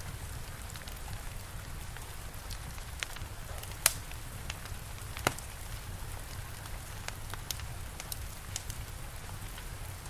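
Steady rain with a low rumble underneath, and a wood fire crackling with scattered small pops. Two louder pops come about four and five seconds in.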